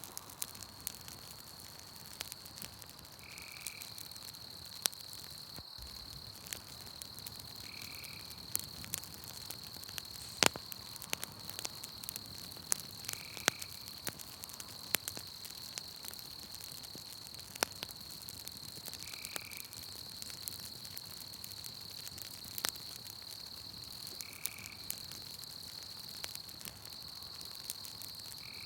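Campfire crackling with scattered sharp pops, over a steady high trill of night insects. A short call repeats about every five seconds.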